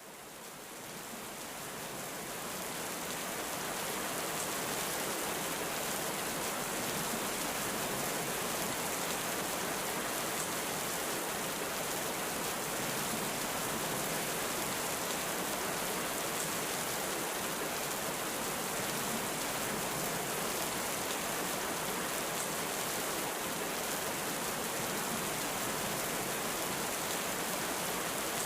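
Heavy rain falling steadily, a dense even hiss that fades in over the first few seconds.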